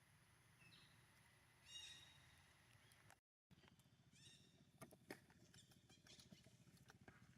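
Faint, short high-pitched squeaks of a baby monkey, several calls in a row, with a few sharp clicks about five seconds in.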